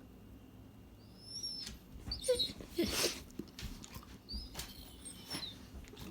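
A pet dog sneezing, a few loud noisy bursts, with short high squeaky vocal sounds just before the first one.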